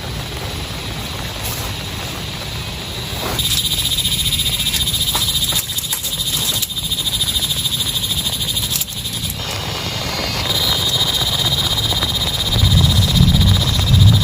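Frogs calling in a fast, pulsing chorus that starts a few seconds in, breaks off briefly and comes back, over the steady hiss of heavy rain. A low rumble swells near the end.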